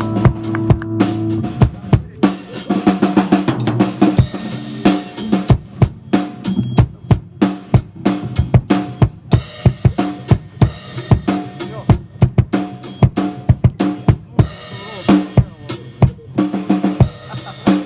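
Rock band playing an instrumental groove: a drum kit beats out a steady pattern of kick, snare and rimshot hits over sustained low bass or guitar notes.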